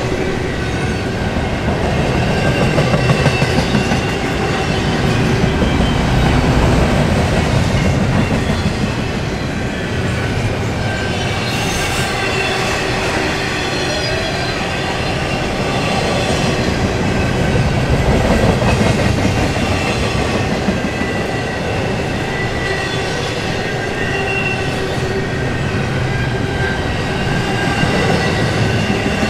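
Double-stack container cars of a freight train rolling past close by: a steady rumble and rattle of steel wheels on the rails, with faint high squealing tones from the wheels.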